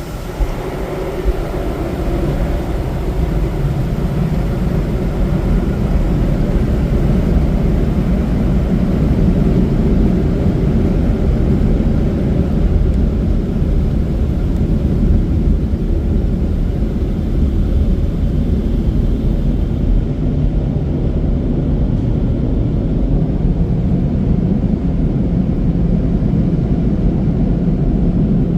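Sonny's car wash dryer blowers blasting air over the car, a loud steady rush heard from inside the car. It builds over the first few seconds.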